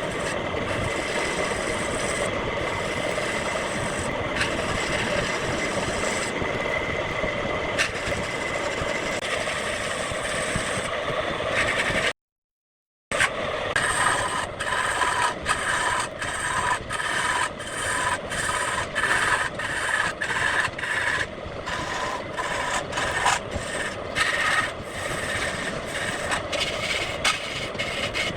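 Wood lathe running with a turning tool scraping and cutting into the spinning wood. The sound is steady for the first twelve seconds, breaks off briefly, then resumes choppier, with the cut coming and going in quick irregular pulses.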